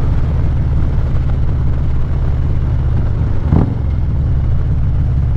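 Harley-Davidson Street Glide CVO V-twin with aftermarket Khrome Werks headers and slip-on mufflers running steadily at cruising speed, a deep, even exhaust pulse, with a brief swell about three and a half seconds in.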